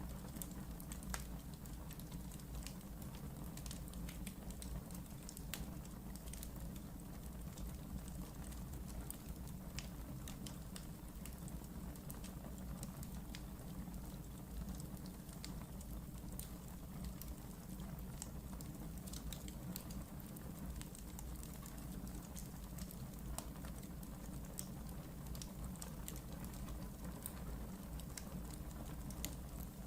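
Wood fire burning in a fireplace, with a steady low rumble of the flames and many small, irregular crackles and pops throughout.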